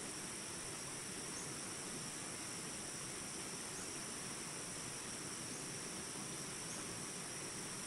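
Steady, high-pitched trilling of insects that runs without a break over the even hiss of flowing water.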